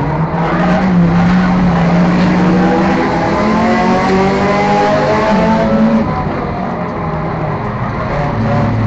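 Enduro race car's four- or six-cylinder engine under racing load. It revs up steadily for several seconds, drops sharply in pitch about six seconds in as the throttle comes off, then pulls again at lower revs.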